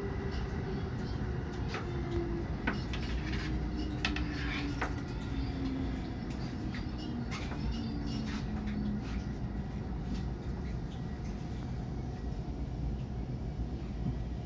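Cabin sound of a JR West 223 series 2000 electric train braking into a station: a steady rumble from the running gear, and a low electric whine from the traction motors that falls slowly in pitch through the first nine seconds. Scattered sharp clicks and knocks run through it.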